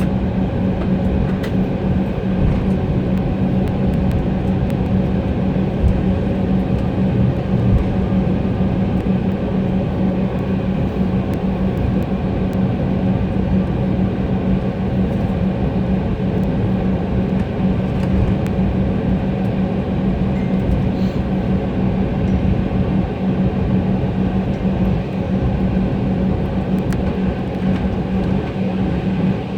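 Cabin noise of an Embraer E175 airliner taxiing after landing: a steady hum from its twin GE CF34 turbofans at idle over a dense low rumble.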